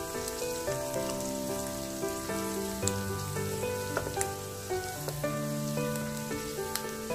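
Sliced shallots sizzling in hot oil in a wok, with a few sharp clicks of a wooden spatula against the pan as they are stirred. Background music with held notes plays over it.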